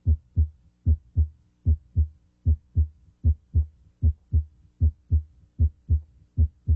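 Normal heart sounds at the mitral area of the chest: a steady lub-dub, with S1 (mitral valve closure) and S2 following about a third of a second apart, about 75 beats a minute. At this area S1 is usually louder than S2. The beats stop at the very end.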